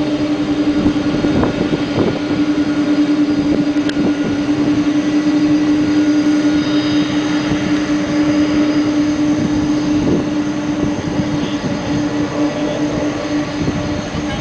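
Boeing 747 jet engines running: a loud, steady rushing sound with a constant low hum-like tone and fainter high whines, easing slightly near the end.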